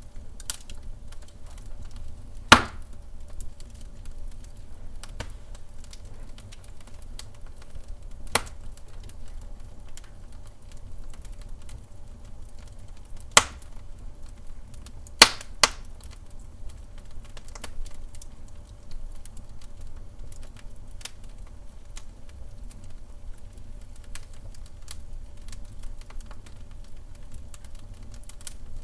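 Wood fire in a fireplace crackling, with scattered light clicks over a low rumble and a few sharp pops. The loudest pop comes about two and a half seconds in, and two more come close together around fifteen seconds.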